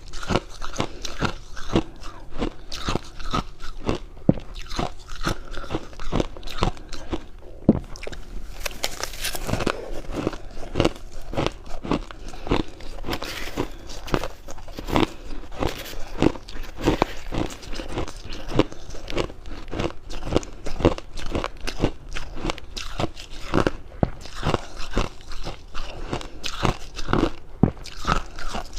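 Close-miked biting and chewing of freezer frost: a continuous run of dry, rapid crunches.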